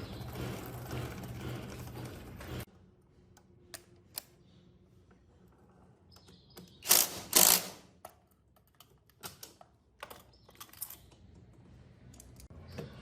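Workshop handling of small metal motorcycle parts: a steady mechanical hum that cuts off suddenly, then scattered light clicks and taps. Two loud scraping clatters come about seven seconds in.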